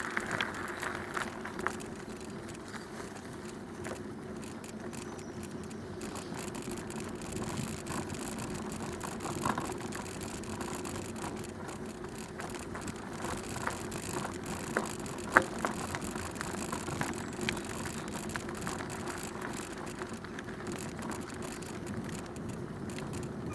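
Bicycle being ridden along a canal towpath: steady tyre noise with the frame and parts rattling and scattered clicks, and one sharp knock about fifteen seconds in.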